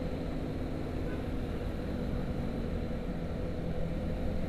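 Honda CBR150R's single-cylinder engine running steadily at a low, even cruising speed, heard from on the bike along with road noise.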